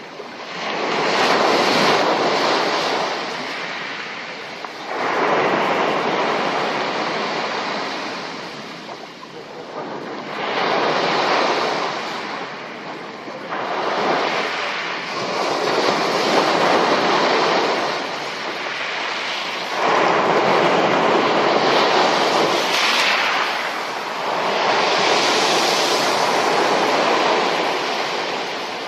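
Sea surf: waves break on the shore one after another, each surge of rushing water swelling and then fading, about every four to six seconds.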